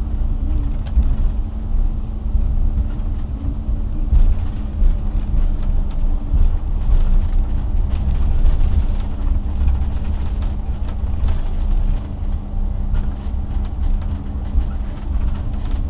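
Airliner cabin noise after landing: a steady low rumble with a constant hum, and faint scattered clicks.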